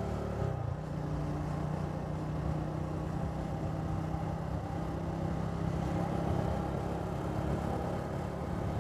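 Triumph Speed 400's single-cylinder engine running steadily through its exhaust at an even pitch.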